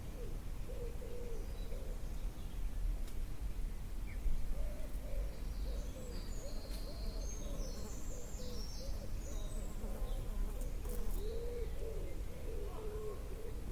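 Birds calling: low, arched cooing notes repeat over and over, with a short burst of high twittering about halfway through over a steady low rumble.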